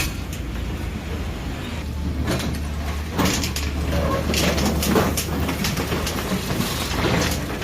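Heavy machinery's engine running with a steady low hum, with scattered knocks and clatter over it from about three seconds in.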